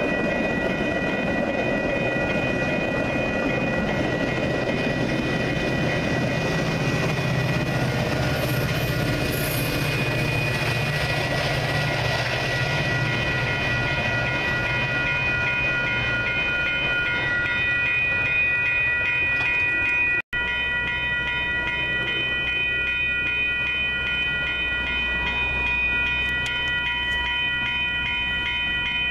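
A Metra commuter train of bilevel cars rolling past a grade crossing, its wheels rumbling on the rails, while the crossing's warning bells ring steadily. The rumble eases in the second half, where the bells carry on over a low drone, and the sound cuts out for an instant about two-thirds through.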